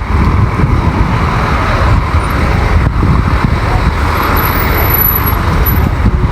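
Steady outdoor rumble of road traffic, with a heavy low rumble from wind on the microphone.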